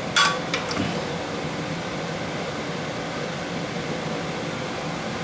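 Steady hum of room ventilation, like an air conditioner or fan running, with one brief sharp sound just after the start.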